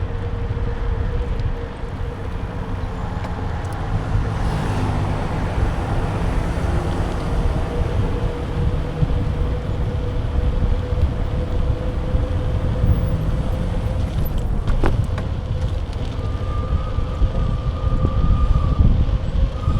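Wind buffeting and road rumble on a bike-mounted action camera's microphone while riding, loud and steady, with a faint steady hum throughout.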